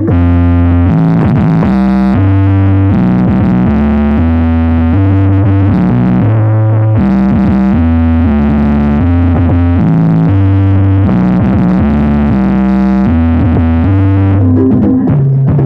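Loud electronic dance music played through a large outdoor sound-system rig stacked with subwoofers, a heavy synthesizer bass line stepping from note to note.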